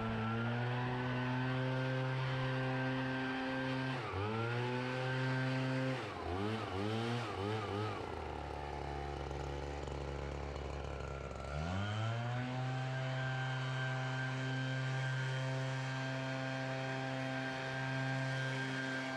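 Small petrol engine of a gas leaf blower running at full throttle. About four seconds in it is briefly eased off. Around six seconds it is blipped up and down several times, then it drops to idle for a few seconds, and it is throttled back up to a steady high run about twelve seconds in.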